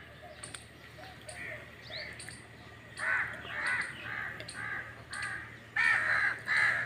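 Birds calling outdoors, short calls repeated about twice a second, growing louder in the second half.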